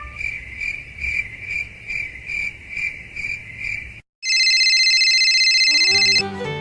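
Cricket chirping steadily, about two chirps a second, over a low rumble. It cuts off abruptly about four seconds in and gives way to a steady high electronic tone, then music starts near the end.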